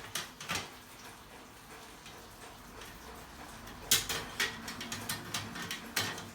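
Sharp clicks and clinks of hard objects being handled, like metal gear being knocked together. Two come near the start, then a quick run of them from about four seconds in.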